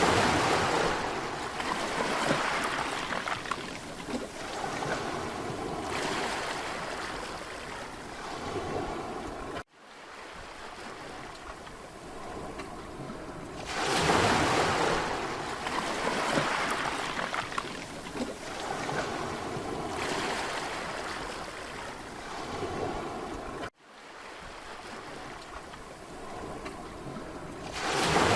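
Mediterranean sea waves breaking and washing up the shore, swelling and fading in slow surges. The sound cuts out abruptly for an instant twice, once about ten seconds in and once about twenty-four seconds in, as one recording joins the next.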